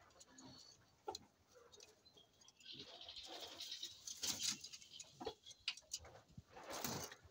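Poultry moving about in a pen: scattered taps and clicks with bouts of rustling, the longest about halfway through and another near the end.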